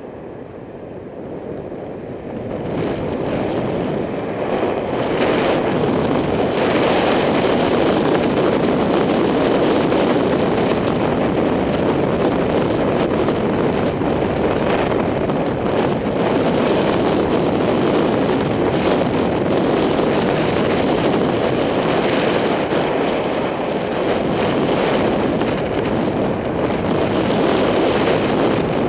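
Wind buffeting the microphone of a camera on a moving bicycle: a loud, steady rush that builds over the first few seconds as the bike gathers speed, then holds.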